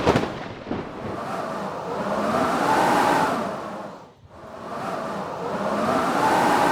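Strong blizzard wind blowing in gusts that swell and die away about every three and a half seconds, each gust carrying a howl that rises and falls in pitch. A few sharp knocks come right at the start.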